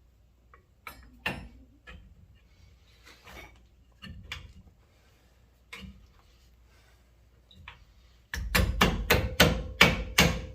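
Scattered light clinks and knocks of metal tools being handled on brake parts, then about eight loud, sharp metal-on-metal strikes in quick succession near the end, each leaving a short metallic ring.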